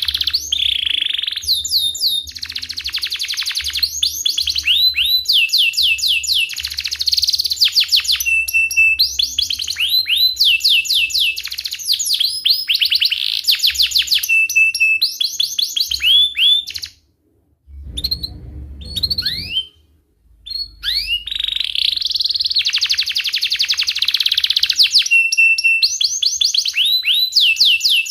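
Domestic canary singing a long, continuous song of rapid rolling trills and chirps with quick falling whistles. It breaks off briefly about two-thirds of the way through, then carries on.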